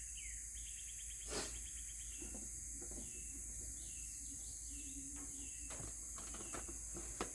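Outdoor insect chorus as a steady high drone, with a bird repeating short, falling chirps over it. A soft knock about a second and a half in and a sharper click near the end.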